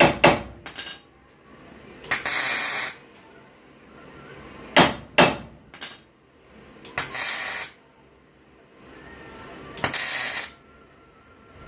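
Hammer strikes in a workshop: a quick run of blows at the start and a few single blows about five seconds in. In between come three short bursts of hissing noise, each under a second long.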